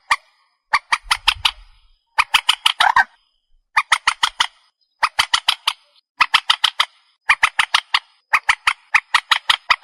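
Trích ré bird calling over and over in bursts of rapid harsh, clicking notes, about one burst a second.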